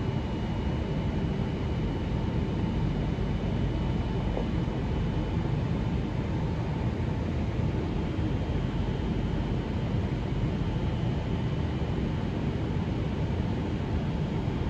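Steady low rumble of railway platform background noise, with faint steady high-pitched hums over it.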